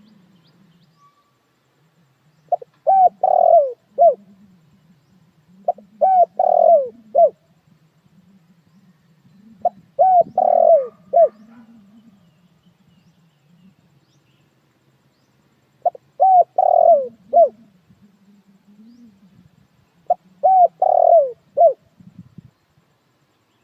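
Spotted dove cooing: five phrases of several short hooting notes each, spaced four to six seconds apart.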